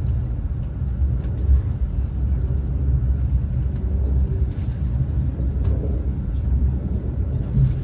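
Steady low rumble of a Renfe class 130 (Talgo 250) high-speed train running along the line, heard from inside the passenger coach.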